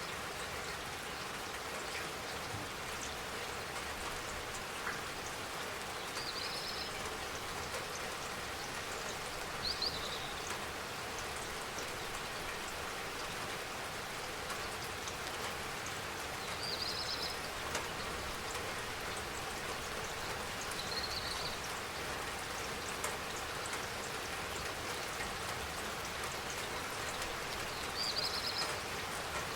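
Steady spring rainfall pattering, with a bird giving a short high chirp every few seconds.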